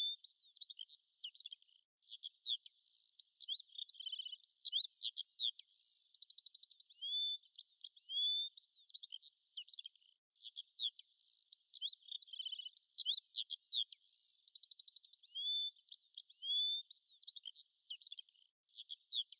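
Birds singing: a busy mix of short chirps, whistled notes that slide up, and quick trills, all high-pitched, with brief breaks about every eight seconds.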